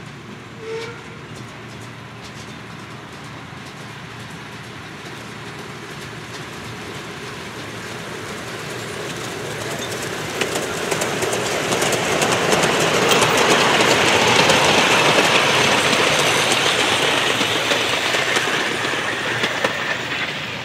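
A miniature railway train drawing closer and running past, growing steadily louder, with rapid clicking from its wheels over the rail joints from about halfway through. A brief tone sounds about a second in.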